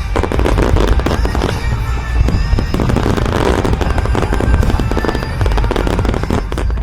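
A fireworks barrage: a dense, rapid run of bursts and crackling that goes on without a break. Rock music plays underneath.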